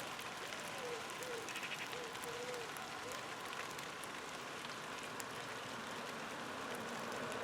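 Light summer rain shower falling steadily, with scattered sharp drips and patters. A few faint short calls sound in the first three seconds.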